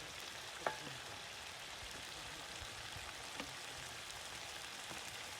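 Meat frying with a steady sizzle. A sharp clink with a short ring comes about a second in, and a fainter click follows a few seconds later.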